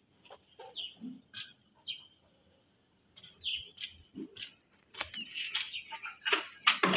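Short falling bird chirps repeat every second or so over light taps. From about five seconds in, a dense, louder run of clicks and scraping takes over.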